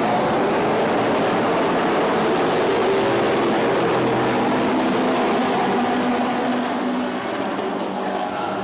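A pack of sports sedan race cars accelerating hard away from the start, many engines running at full throttle together, easing off slightly near the end.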